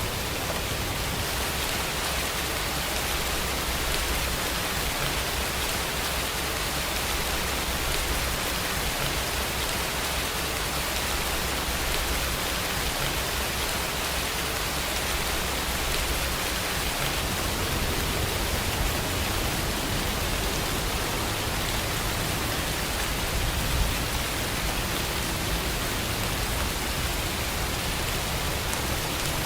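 Steady rain falling, a continuous even hiss, with a low rumble underneath that changes about halfway through.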